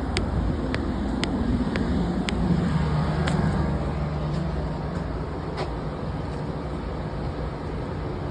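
Road traffic noise, with a vehicle's engine hum swelling and fading from about two to five seconds in. A string of light sharp clicks, about two a second, runs through the first couple of seconds.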